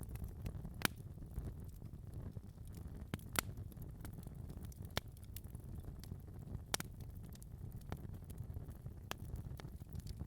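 Wood fire burning in a fireplace: a low steady rumble of flames with sharp, irregular crackles and pops, the loudest about a second in and again a few seconds later.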